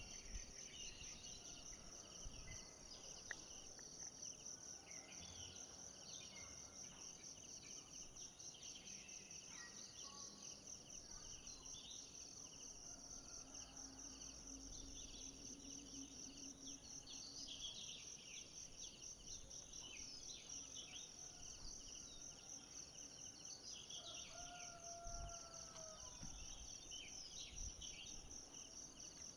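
Forest ambience: a steady, high-pitched, pulsing insect chorus, with scattered bird chirps over it and a short call lower in pitch near the end.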